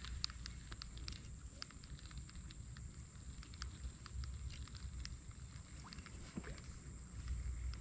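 Quiet outdoor ambience: a steady high, thin whine, scattered faint ticks and clicks, and a low rumble of wind on the microphone.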